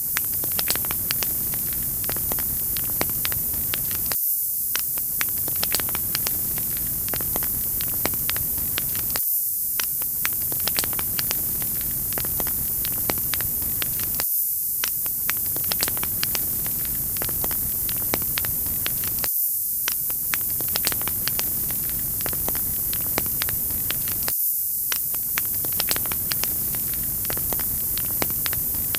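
Wood fire crackling in a fireplace: a steady hiss dotted with many small pops and snaps. About every five seconds the lower part of the sound drops out for a moment, as at the seam of a repeating loop.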